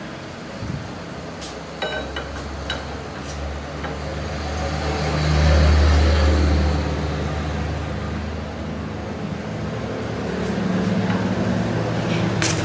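A machine motor running with a steady low hum that swells louder about five seconds in and eases off again, with a few scattered clicks and a sharp click near the end.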